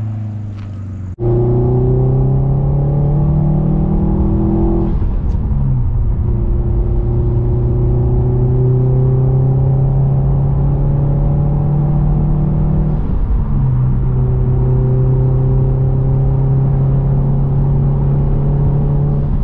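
Subaru WRX STI's turbocharged flat-four engine and exhaust heard from inside the cabin, accelerating through the gears with a manual gearbox. After about a second of the car heard quieter at a distance, the engine note climbs slowly three times, dropping at an upshift about five seconds in and again about thirteen seconds in.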